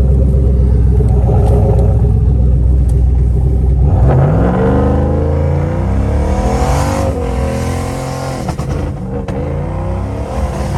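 Turbocharged LS V8 engine in a car running hard. A steady, loud low drone for about four seconds, then the pitch climbs as it accelerates, dropping back briefly a couple of times before climbing again.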